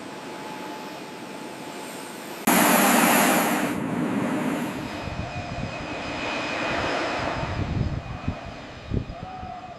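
Jet aircraft engines running as a steady rushing noise with a faint whine. A sudden louder rush about two and a half seconds in eases off over the next few seconds.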